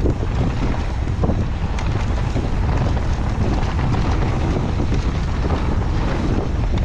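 Strong wind buffeting the microphone of a handlebar-mounted phone on a mountain bike riding down a trail, a steady heavy rumble with small clicks and rattles from the bike over the ground.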